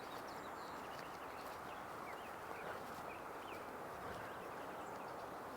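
Faint, short bird chirps scattered over a steady low outdoor rush.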